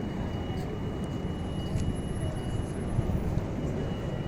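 Steady low rumble of background noise, with a faint steady high-pitched tone above it.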